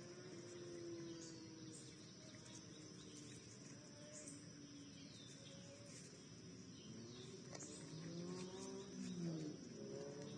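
Faint backyard ambience: a steady high insect drone with short falling bird chirps every second or two, over a low wavering hum that swells near the end.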